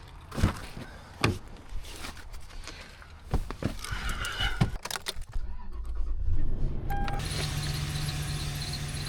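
Scattered clicks and knocks, then a vehicle engine starting about six seconds in and running steadily.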